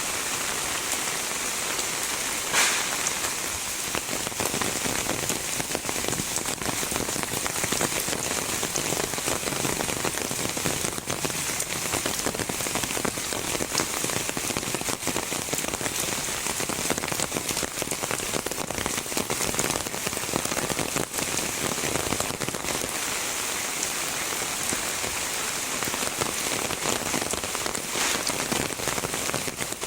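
Heavy rain falling steadily, with one sharper, louder hit about two and a half seconds in.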